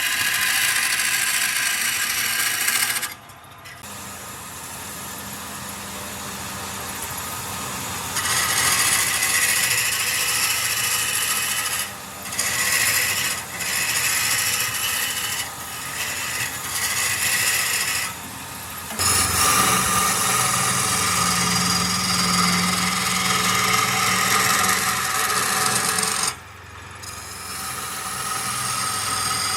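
Wood lathe running while a tool scrapes and cuts the spinning wood: a loud, even rasping noise with a faint steady motor tone beneath it. The noise drops away briefly several times as the tool comes off the work.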